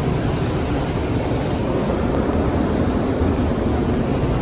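A supercharged Camaro's engine and exhaust running loud and steady while the car drives.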